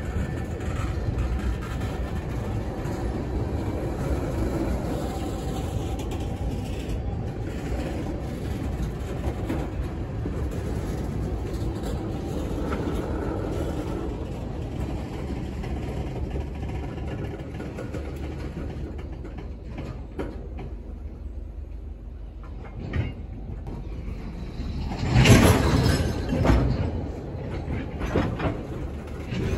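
Freight train tank cars rolling past at slow speed: a steady rumble of steel wheels on rail that eases off past the middle, then a louder burst of wheel clatter and clacks about 25 seconds in.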